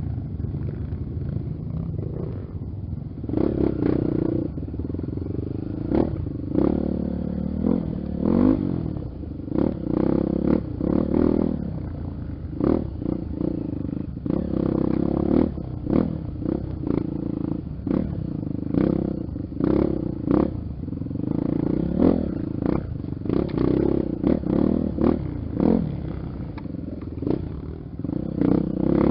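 Honda XR 250 Tornado's single-cylinder four-stroke engine, its pitch rising and falling again and again as the throttle is worked. Frequent short knocks and rattles run through it.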